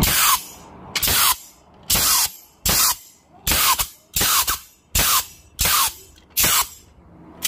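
ST64 pneumatic steel nailer being fired about nine times in a row, each shot a short sharp blast of exhausting air. It is being test-fired for its fault: a driver pin that does not return and lacks power.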